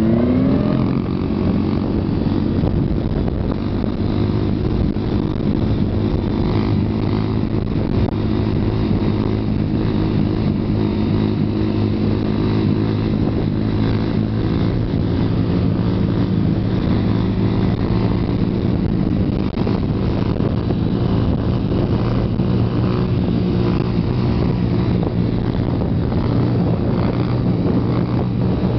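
Small dirt bike's engine held at steady revs through a long wheelie, its pitch climbing in the first moment and then staying nearly constant.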